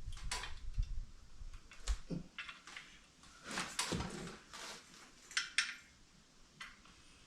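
Scattered light metal clicks, clinks and short scrapes as a pin is worked loose from the steel parts of a transmission jack by hand.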